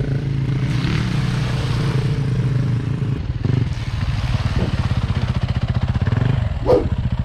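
Dirt bike engine running steadily while riding the trail, with hiss over it, and a brief sharp sound near the end.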